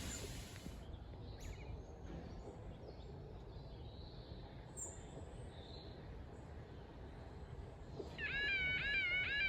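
Quiet open-air background with a few faint bird chirps. Near the end, a level crossing's warbling yodel alarm starts up and repeats about three times a second. This is the activation in which one of the crossing's alarms was going faulty.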